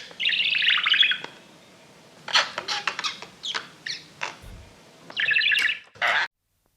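Parrot calling: a harsh screech, then a run of short sharp chirps, then another screech and one short call, before the sound cuts off abruptly.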